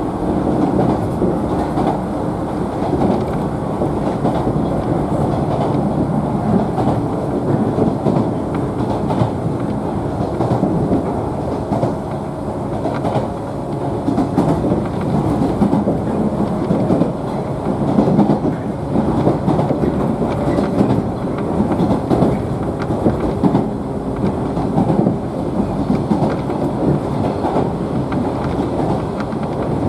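Cabin sound of a JNR 113 series electric train running along the line: a steady rumble of wheels and running gear on the rails, with clickety-clack from the wheels passing over rail joints.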